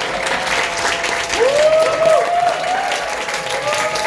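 Audience applauding with sustained clapping, with a few voices calling out over it.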